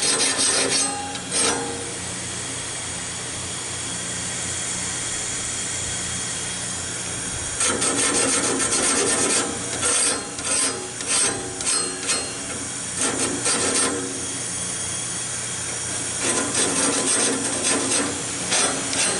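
A small electric grinder runs steadily while its grinding wheel is touched to the teeth of a sawmill band blade, grinding metal in a series of short passes and a few longer ones, to sharpen a blade that had been cutting wavy.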